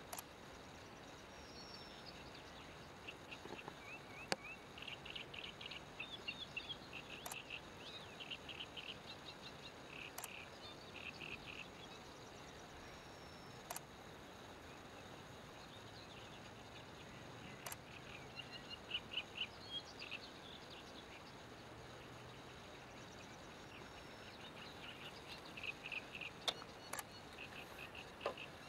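Small birds singing: repeated bursts of quick, high chirps, with a few sharp clicks in between.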